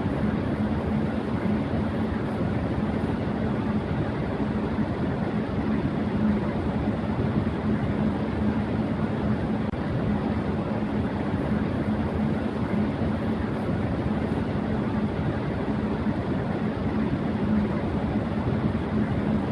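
Electric fan running at high speed: a steady, even whoosh of air with a low, constant hum underneath.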